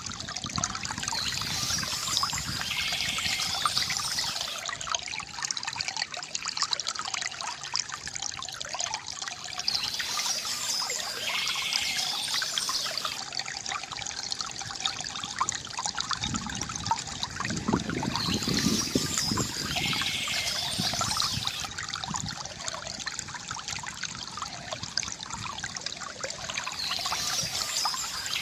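Water trickling and gurgling steadily from a bamboo fountain, with a brighter, splashier stretch coming back about every nine seconds.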